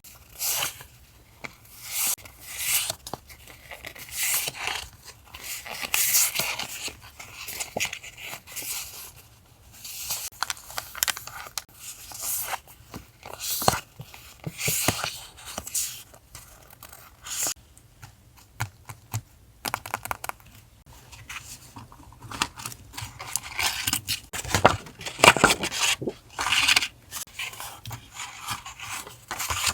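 Paper and sticker sheets being handled for collage journaling: an irregular run of short rustling, peeling and cutting strokes, loudest a little before the end. A faint steady low hum runs underneath.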